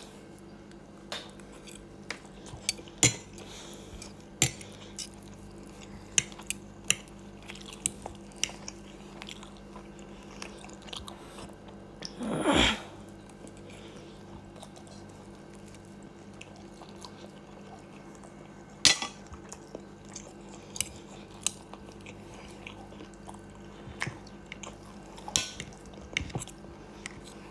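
A person eating a meal: cutlery clicking against a plate at irregular intervals, with chewing, and a louder noise about halfway through. A faint steady hum underlies it.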